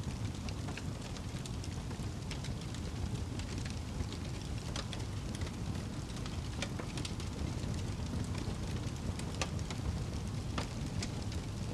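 Wood fire crackling and popping, scattered sharp snaps over a steady low rumble.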